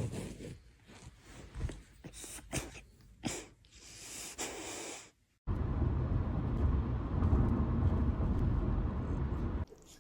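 A dog's snorts and breaths in short, irregular noisy bursts. About five seconds in these give way suddenly to a louder steady low rushing noise that cuts off near the end.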